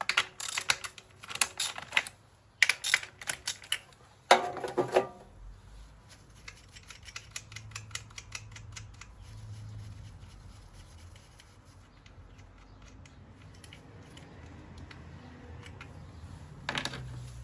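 Hand ratchet wrench clicking as fasteners are worked loose on the engine, with metal tools and parts clinking and knocking. Sharp knocks come in the first few seconds, the loudest about four seconds in. Faster, fainter ratchet ticks follow, then another short clatter near the end.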